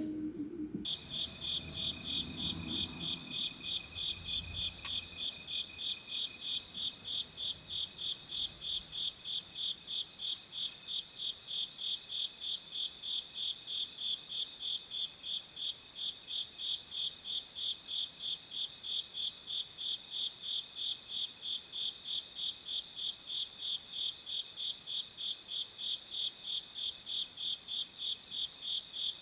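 Insects chirping in a steady, even rhythm, about two or three chirps a second, over a continuous high-pitched trill, starting about a second in.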